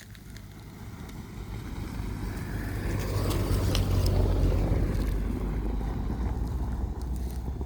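Small 4x4's engine running with tyre noise on a dirt road, growing louder to a peak about four seconds in, then easing off slightly.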